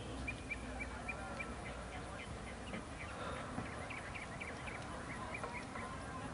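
Rapid run of short high chirps, bird-like, over a steady outdoor hiss.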